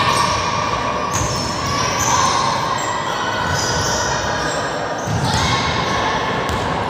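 Balls bouncing or being struck over and over in a ball drill, a rapid run of thuds, with voices mixed in.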